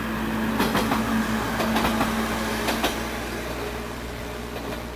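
A JR 123 series single-car electric train running along the line, its wheels clacking over the rail joints several times in the first three seconds over a steady running hum, then growing quieter.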